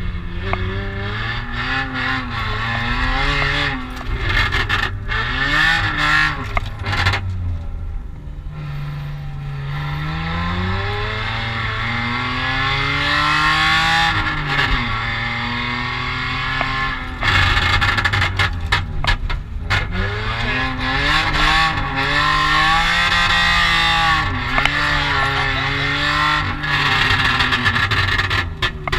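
A car engine driven hard, its revs climbing and dropping again and again with short breaks between climbs, as in repeated shifts and braking.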